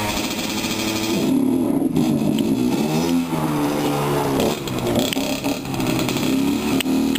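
Dirt bike engine running, its pitch rising and falling as the throttle is opened and closed.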